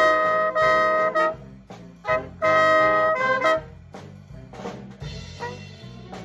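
Jazz big band playing a swing chart at tempo: brass and saxophones play two loud held chords, the second about two and a half seconds in, over a walking bass and drum kit, then drop to a quieter passage for the rest.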